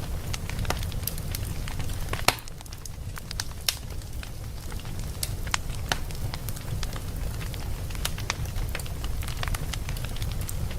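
Wood fire in a fireplace crackling, with irregular sharp pops, the loudest about two seconds in, over a steady low rumble.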